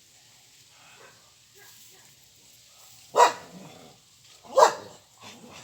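A dog barking: two loud, sharp barks about a second and a half apart, followed by a few fainter short sounds.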